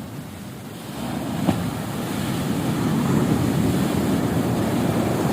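Strong surf washing onto a beach, the wave noise building from about a second in and staying loud. A brief sharp click sounds about one and a half seconds in.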